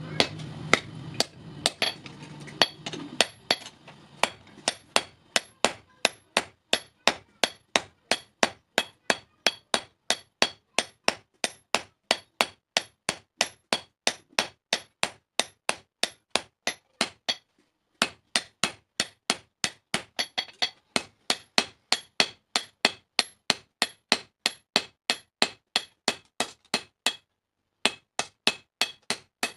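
Blacksmith's hand hammer striking a steel hasua blade on an anvil in a steady rhythm, about two blows a second, each with a bright metallic ring. The hammering stops briefly twice, once past the middle and again near the end. A low hum fades out in the first few seconds.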